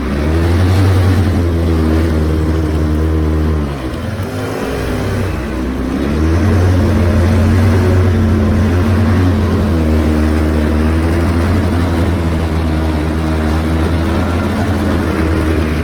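ATV (four-wheeler) engine running steadily under throttle, easing off about four seconds in, then picking back up and holding a steady drone.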